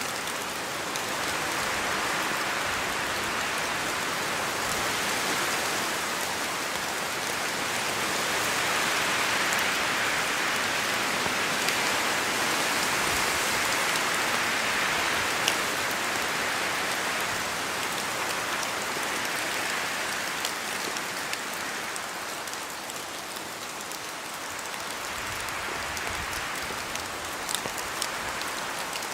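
Steady rain and wind in a forest, with drops falling from the trees. The sound swells louder through the middle and eases again, and a few sharper drop hits come about halfway through and near the end.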